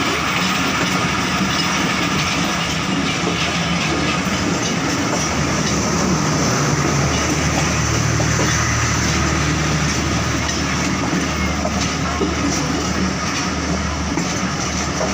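Passenger train running along the track: a steady rolling noise of wheels on rails with a low steady hum beneath.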